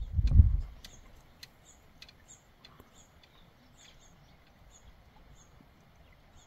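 Faint, high, short bird chirps repeating every few tenths of a second, with a few light ticks, after a brief low rumble at the very start.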